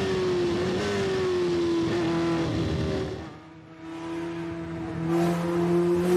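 Racing car engines at high revs. The first engine's note slowly falls, then drops away about three and a half seconds in, and a second engine comes in with a steady note that grows louder near the end.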